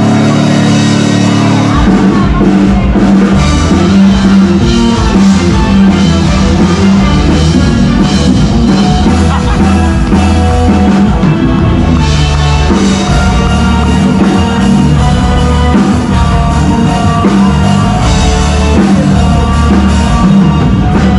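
Live rock band playing amplified on stage: drums, bass and electric guitar, with the bass and drums coming in about two seconds in.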